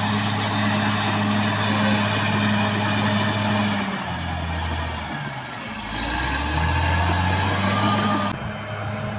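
CAT D6R XL bulldozer's diesel engine running hard and steadily. Its pitch drops about four seconds in, then climbs again as the revs come back up. The sound changes abruptly near the end.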